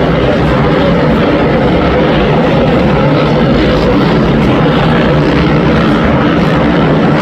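Many 450cc four-stroke supercross bikes racing on the track at once, their engines blending into a loud, steady drone.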